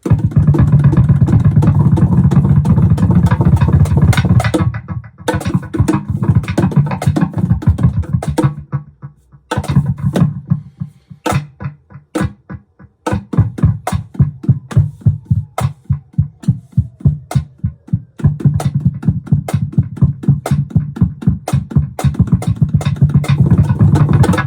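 Laptop cajon played through a Digitech BP 355 multi-effects pedal: rapid drumming turned into a loud, pitched, droning electronic tone, broken up by sparser single hits in a couple of places.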